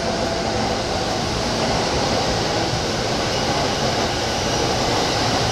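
Keihin-Tohoku Line E233 series electric train running along the platform as it pulls in, a steady rumble of wheels and running gear. A faint high whine joins about three seconds in.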